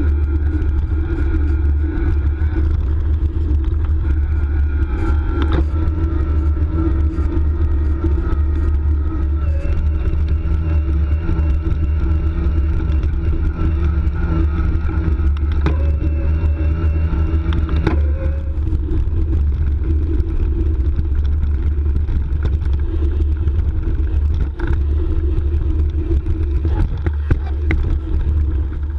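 Wind rumbling on the microphone while riding an electric mountain bike, over the whine of its Bosch mid-drive motor, which steps to a new pitch every few seconds, with a few single knocks from the bike.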